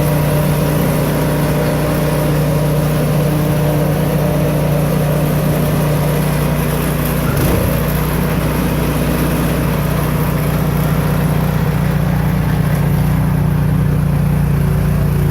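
Craftsman gas snow blower engine running steadily at work speed while clearing snow.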